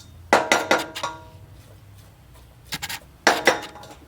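Kitchenware being handled: two bursts of clinks and knocks with a brief metallic or glassy ring, one just after the start and a second near the end.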